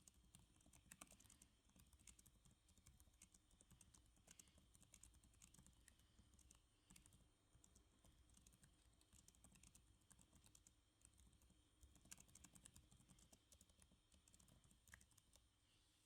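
Faint typing on a computer keyboard: a steady, irregular run of soft keystroke clicks.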